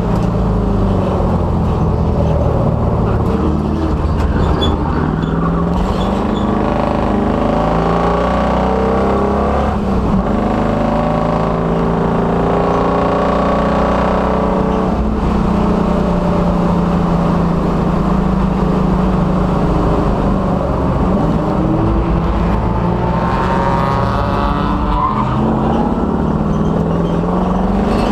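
1966 Dodge Dart race car's engine running hard on track, its revs climbing and dropping again and again through the whole stretch.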